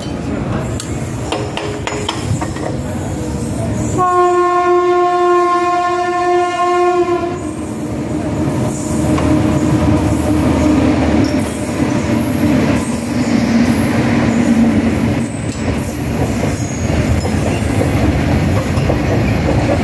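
A locomotive horn sounds one long, steady blast about four seconds in, lasting about three seconds. A train then passes on the adjacent track, with a steady rumble and clatter of wheels and freight wagons for the rest.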